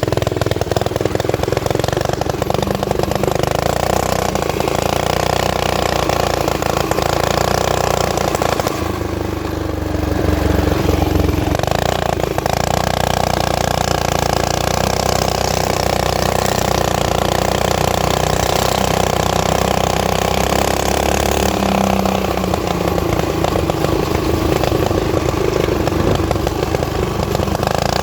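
Small mini-bike engine running continuously as the bike is ridden, easing off briefly about nine seconds in and then picking up again.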